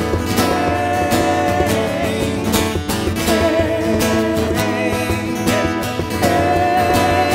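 Acoustic guitar strumming steadily through an instrumental break of a folk song, with a held, wavering melody line over it that comes and goes.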